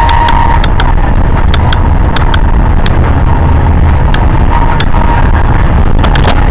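Loud, steady rumble of a moving vehicle, with sharp clicks every fraction of a second and a faint steady whine.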